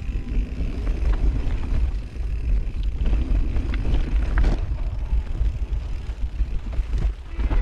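Mountain bike rolling downhill over a rough trail, with wind buffeting the action camera's microphone in a heavy low rumble. Tyre and frame noise run underneath, with scattered sharp knocks and rattles from the bike over bumps.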